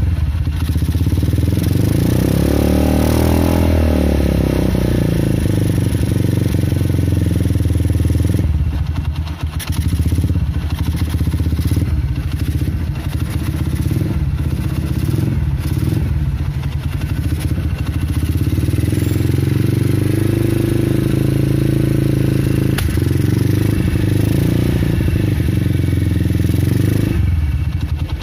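Single-cylinder Honda Megapro engine, bored up to 250cc, running through a PDK racing exhaust and being revved: a rise and fall in revs early on, a run of short throttle blips in the middle, and another longer rev near the end.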